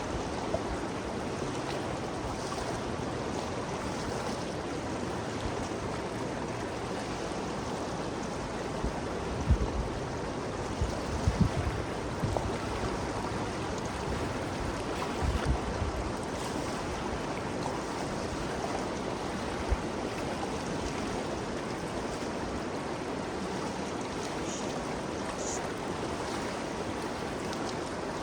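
The Ganges River flowing: a steady rush of moving water, with a few brief low thumps about a third of the way in and again near the middle.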